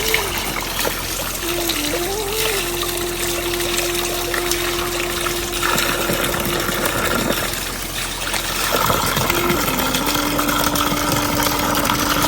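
Steady rain and trickling water, with a slow background melody of long held notes that steps down in pitch a few times.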